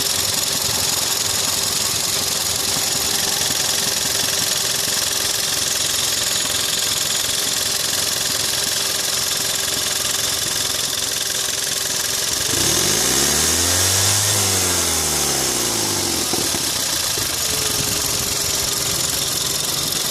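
VW 1.4 TSI 122PS (CAXA) four-cylinder turbo petrol engine idling, blipped once about twelve seconds in, its pitch rising and falling back to idle over about four seconds. The owner links the engine's noise to the timing chain.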